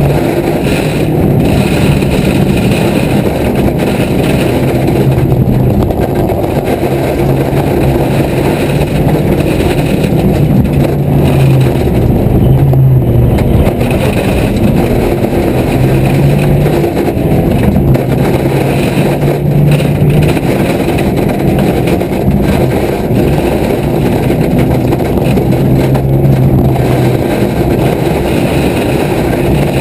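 Car engine heard from inside the cabin, pulling hard and easing off again and again as it is driven through bends, its note rising and dropping with throttle and gear changes over steady road and tyre rumble.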